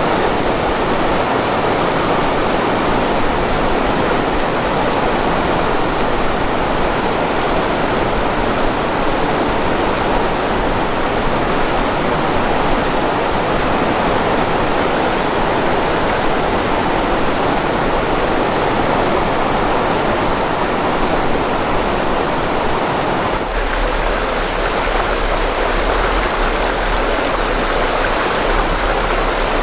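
Mountain stream rushing steadily, a constant loud water noise with a slight change in tone about three-quarters of the way through.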